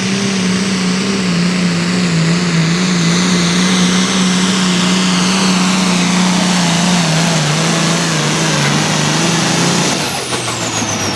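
Allis-Chalmers D21 pulling tractor's turbocharged diesel engine at full throttle, dragging the sled for about ten seconds with its pitch sagging slightly under load. Near the end the engine is shut off and the turbo whine falls away.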